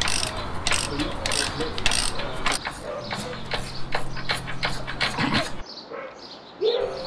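A socket ratchet wrench clicking in quick runs as hub carrier bolts are wound out. The clicking breaks off about five and a half seconds in, with a short louder sound near the end.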